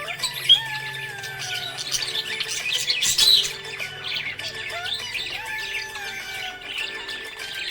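Budgerigars chirping and squawking in a rapid, busy chatter, with a louder squawk about three seconds in, over soft background music.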